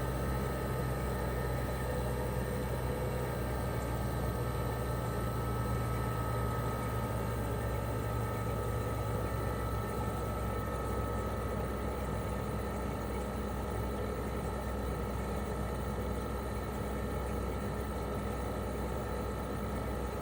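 Toshiba RAS-285BAD mini-split outdoor unit running steadily in cooling mode: its twin rotary inverter compressor hums under the propeller fan's airflow, with a faint whine that drifts slightly in pitch.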